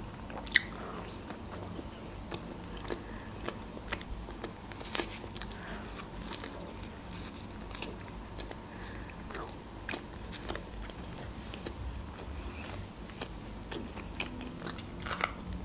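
Close-up biting and chewing of crusty pizza bread, with many short crisp crunches and one sharp bite about half a second in.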